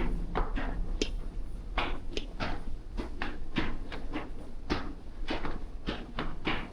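Footsteps walking at a steady pace, about two steps a second, over a low background rumble.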